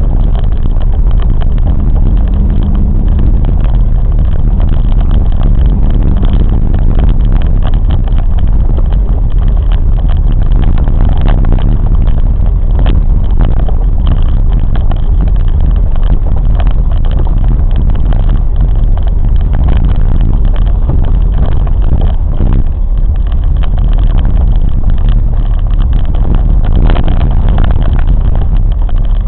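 Train running along the track: a steady, loud low rumble with many small clicks and knocks from the running gear.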